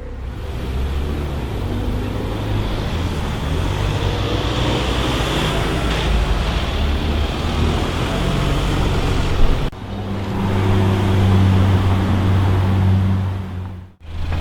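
Car engines running amid street traffic noise. The sound cuts off suddenly about ten seconds in and gives way to a steadier low engine hum, then cuts again briefly near the end.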